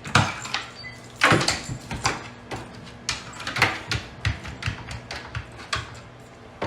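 Irregular knocks and thumps, a few a second at times, over a faint low hum.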